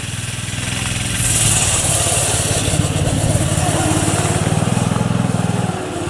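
An engine running steadily with a fast, even pulse, and a loud hiss for a few seconds starting about a second in.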